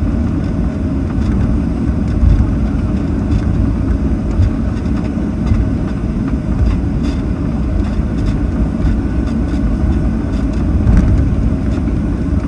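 Boeing 737-800 cabin noise while taxiing: a steady low rumble of the CFM56 engines at low thrust and the wheels rolling, with a few brief low bumps.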